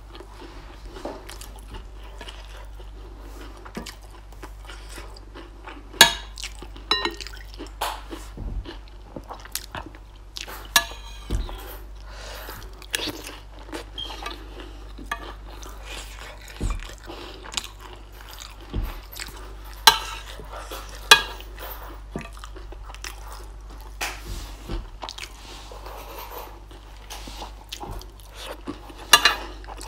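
A person chewing and eating with wet mouth sounds, broken every few seconds by short sharp clicks and crunches.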